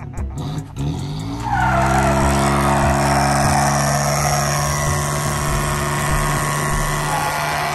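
A truck engine revs up and is held at high revs while the tyres squeal steadily in a burnout.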